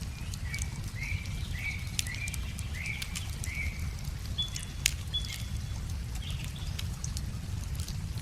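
Wood fire crackling with scattered sharp pops, one louder pop about five seconds in, over a steady low rumble. A bird sings a quick series of about six short, slurred notes in the first half, then two thin whistles.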